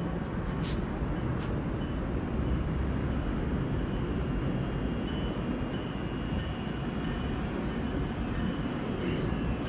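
Metrolink commuter train rumbling steadily as it comes into the station, with two brief sharp clicks in the first couple of seconds.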